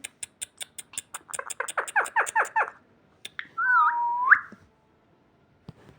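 Pet parakeet vocalizing: a quick run of clicks, then a rapid series of short chattering chirps, then a single whistled note that dips and then sweeps up sharply at its end.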